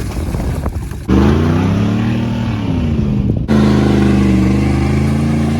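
A 1996 GMC K1500's 5.0-liter Vortec V8 running loud through a custom exhaust, heard in three short cut-together clips. In the middle clip the revs rise and fall.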